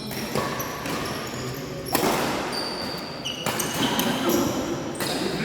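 Badminton rally: rackets striking the shuttlecock four times, about a second and a half apart, echoing in a large hall, with shoes squeaking on the court floor between the hits.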